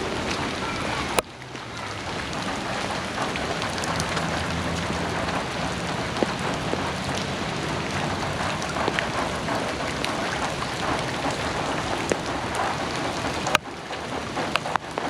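Steady rain falling, a dense hiss of many drops, broken by two abrupt cuts: about a second in and near the end.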